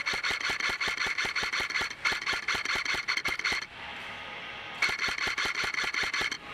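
Customised KWA Commando airsoft electric gun (AEG) firing in rapid full-auto bursts, its gearbox whining under each burst. Three bursts: one stops just before two seconds in, the next follows at once, and a third comes after a pause of about a second.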